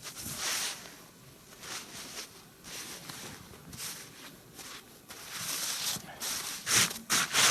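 Snow crunching and scraping in irregular bursts as it is cleared away, sparse at first, then busier and louder near the end.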